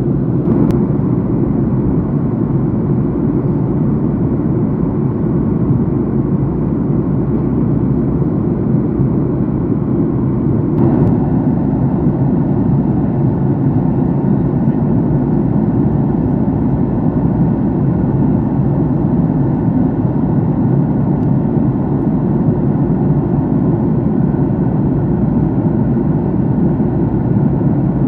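Steady roar of an airliner's engines and airflow heard inside the passenger cabin in flight, a deep, even noise with no change in pitch.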